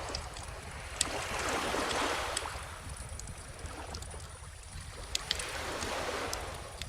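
Calm ocean waves washing on a beach, two swells about four seconds apart, with a wood bonfire crackling in scattered sharp pops over them.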